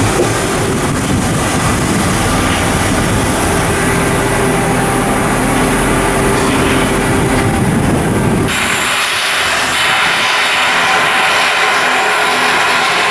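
Loud, steady machinery noise of shipyard construction work. About eight seconds in it changes abruptly to a brighter, higher noise.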